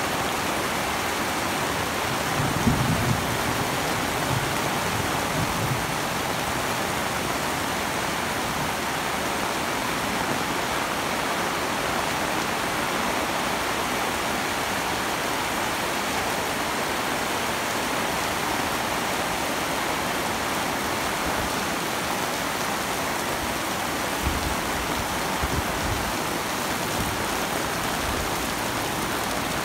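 Heavy tropical rain pouring down on a flooded street and on an umbrella overhead, a steady dense hiss. There are a few low bumps about three seconds in and again near the end.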